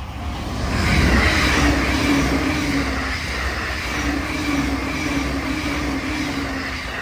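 Electric train passing close by a level crossing at speed: a loud rush of wheel and rail noise with a steady low hum, building over the first second and then holding. The crossing's warning bell can be heard ringing just before the train drowns it out.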